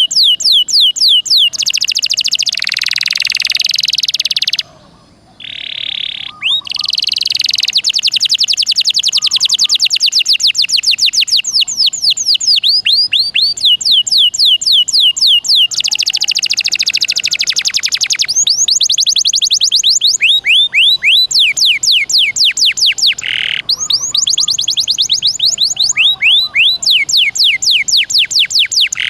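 Domestic canary singing a long, continuous song of fast trills: runs of rapidly repeated sweeping notes that change from phrase to phrase, with a brief break about five seconds in.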